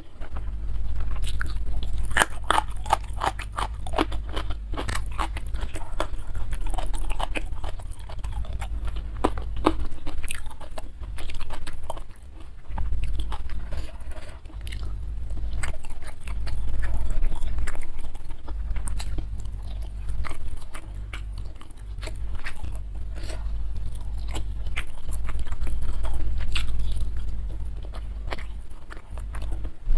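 Close-miked chewing and crunching of a meal of boiled fish, rice and raw vegetables, with many short crisp crunches, densest about two to four seconds in.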